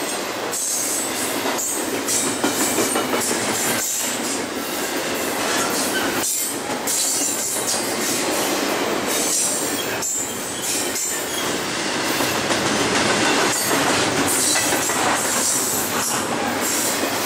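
BNSF double-stack intermodal freight train rolling past at speed, its steel wheels rumbling and rattling on the rails in a steady, loud wash of noise. A high wheel squeal rises and fades now and then.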